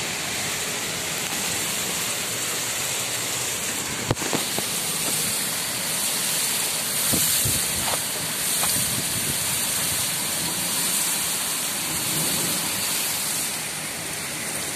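Heavy wind-driven rain pouring steadily onto a flat rooftop and the street below, a dense hiss. A few sharp taps stand out about four seconds in and again between seven and nine seconds in.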